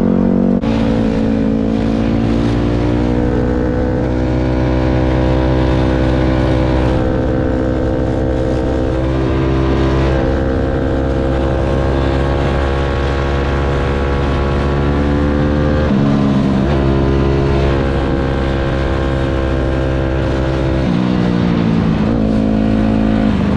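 Dirt bike engine running hard at a steady pitch for several seconds at a time. The pitch briefly drops and climbs back about a third of the way in, again about two-thirds in, and once more near the end.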